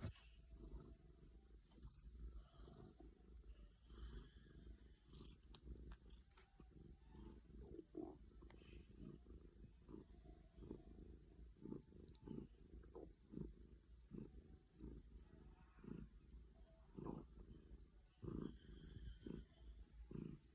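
Domestic cat purring faintly in a steady rhythm as she is stroked, with occasional gurgling noises from her stomach.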